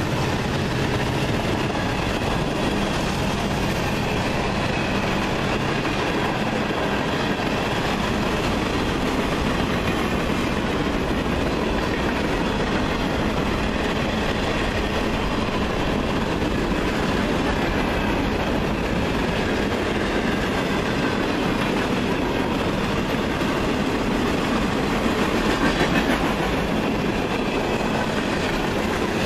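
Freight cars of a long mixed freight train (hoppers, tank cars and boxcars) rolling steadily past, steel wheels running on the rails, a little louder briefly near the end.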